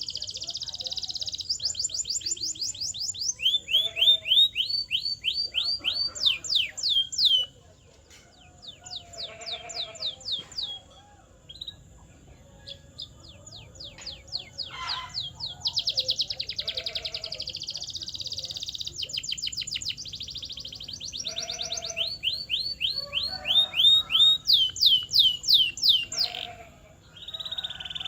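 Canary singing a long song of fast rolling trills, each phrase a rapid run of repeated high down-sweeping notes, changing to a new phrase every second or two. About a third of the way in the song drops to a softer, sparser passage before the loud trills return.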